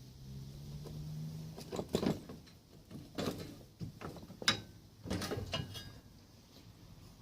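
A low steady hum, then irregular metallic clunks and scrapes, the sharpest about four and a half seconds in, as parts and tools are handled while the front end is unbolted from a ride-on lawnmower.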